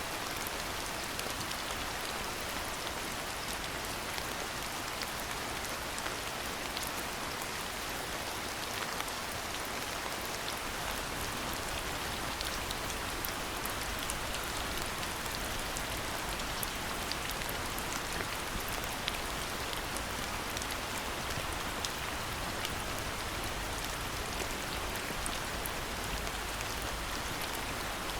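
Steady rain falling, an even hiss with many separate close drops ticking through it.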